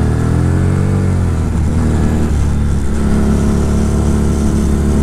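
Fekon Victorino 250i's air-cooled V-twin engine pulling the motorcycle uphill. Its note rises and then falls over the first second and a half, then holds steady.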